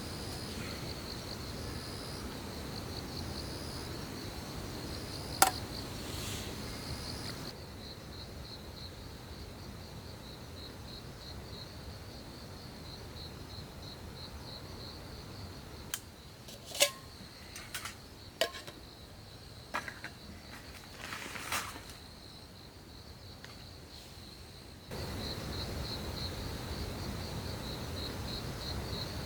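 Crickets chirping in a steady, fast-pulsing trill, with a single sharp click about five seconds in and a few knocks and clicks around the middle.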